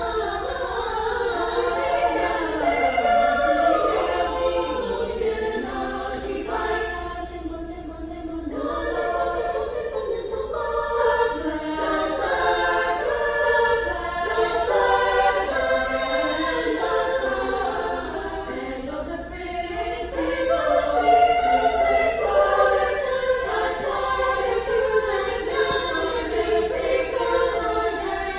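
Female vocal ensemble singing in several parts at once, the voices moving independently in polyphony.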